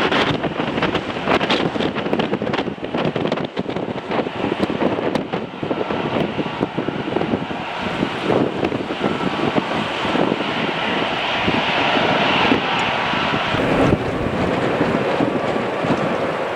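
Jet airliner engines running and slowly growing louder, with a thin whine coming in near the end. Wind buffets the microphone, heaviest in the first half.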